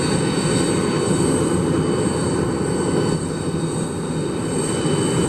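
Jet airliner engines running at an airport: a steady rumble with thin, steady high-pitched whine tones over it.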